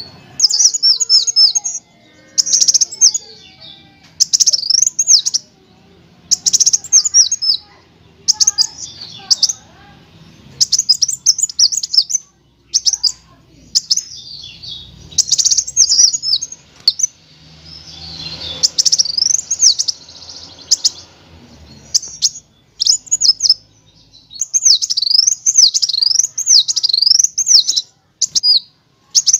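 Kolibri wulung sunbird singing: high-pitched, rapid trills of quick up-and-down sweeping notes, delivered in short bursts about a second long with brief pauses between them.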